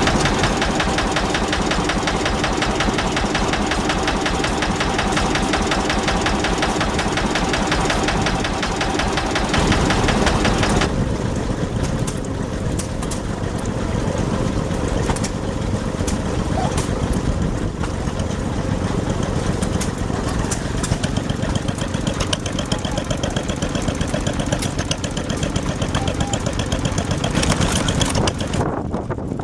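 Vintage stationary engines running steadily with a regular firing beat. About eleven seconds in the sound changes abruptly to a different engine's note.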